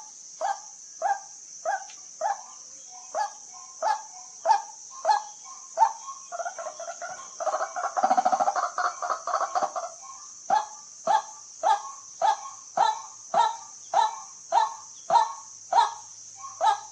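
White-breasted waterhen calling: a long run of loud, evenly repeated notes about two a second. About six seconds in they break into a faster bubbling chatter for a few seconds, then the steady notes return. A steady high insect buzz runs behind.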